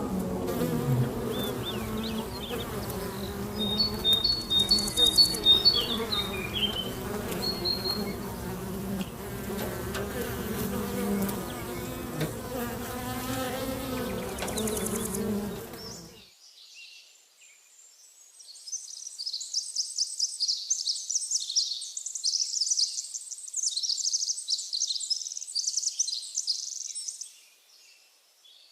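A flying insect such as a bee or fly buzzing close by, its wingbeat hum steady and low, with a few short high chirps a few seconds in. About halfway through the buzz cuts off suddenly; after a short quiet gap comes about eight seconds of rapid, high-pitched twittering chirps.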